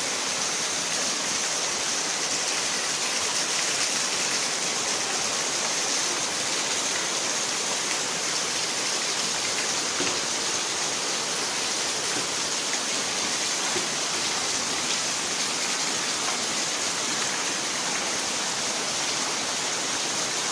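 Steady heavy rain, an even continuous hiss with no let-up.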